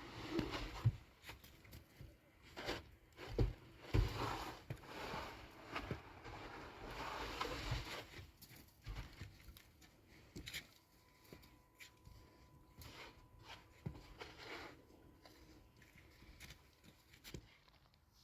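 Scattered knocks, scrapes and rustles of objects being handled, busier in the first half, with a faint steady tone for a few seconds past the middle.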